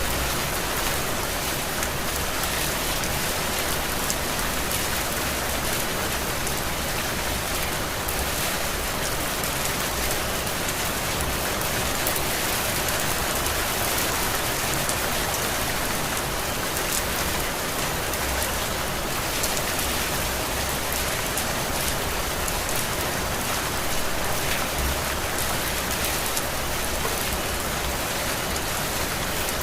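Heavy rain falling steadily: an even hiss with individual drops spattering through it.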